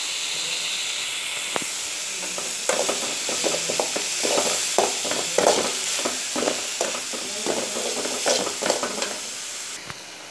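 Mushrooms and small onions sizzling in hot oil in a metal pan, with a steel spoon scraping and knocking against the pan as they are stirred. The stirring strokes come quickly from about three seconds in.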